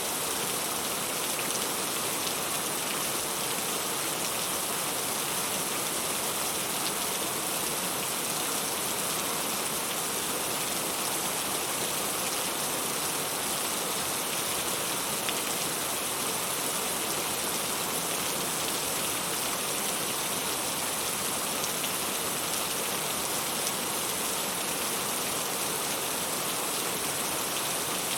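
Steady rain falling, an even hiss of drops that is strongest in the highs and does not change.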